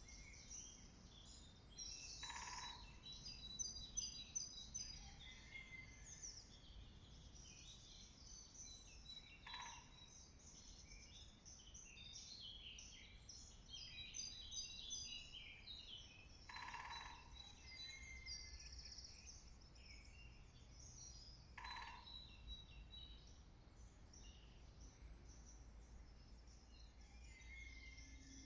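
Faint woodland dawn-chorus-style birdsong from several small birds singing throughout, with four short rolls of woodpecker drumming a few seconds apart.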